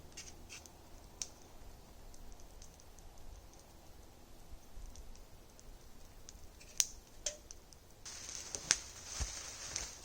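Campfire crackling faintly, with scattered sharp pops. Near the end a short stretch of hiss comes in with a few louder pops.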